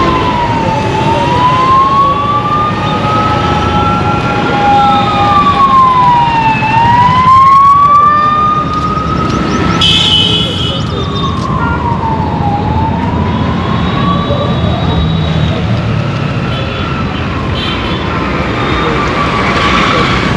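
An emergency vehicle's siren wails in a slow rise and fall, each cycle taking about six seconds. It sounds over the steady noise of road traffic.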